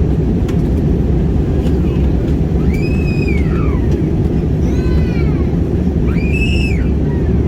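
Steady, loud drone of an airliner cabin in flight: engine and airflow noise. Three short, high cries that rise and then fall in pitch sound over it, about three, five and six and a half seconds in.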